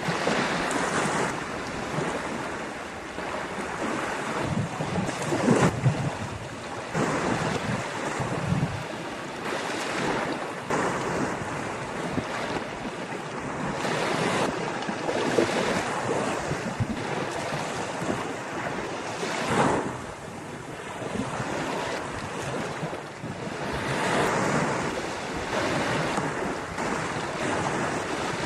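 Ocean surf breaking on a beach, waves swelling and washing in one after another every few seconds, with wind buffeting the microphone.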